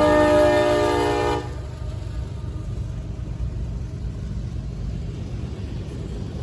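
Diesel locomotive air horn sounding a sustained chord that cuts off about a second and a half in, leaving a steady low rumble from the approaching train.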